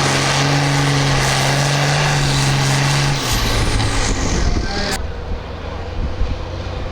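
Tractor engine running hard at a steady pitch under full throttle, as in a pull. About three seconds in, the pitch drops and it settles to a lower, rougher rumble. The high hiss cuts off abruptly about five seconds in.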